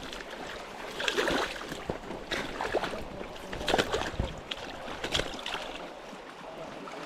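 Flowing river water, with a few short knocks scattered through it.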